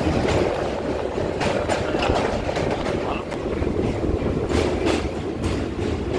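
Express passenger train running along the track: a steady rumble of the coaches with irregular clicks of wheels over rail joints.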